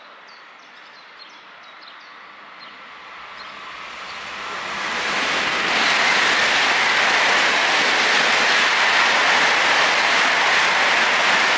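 ICE high-speed train passing at speed: an even rushing of wheels and air that swells from about three seconds in and stays loud.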